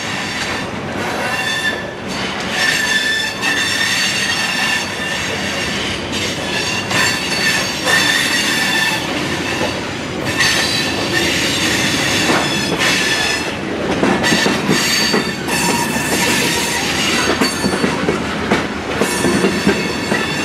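Freight cars rolling slowly, their steel wheels squealing on and off in high, thin tones over a steady rumble, with occasional clicks over rail joints.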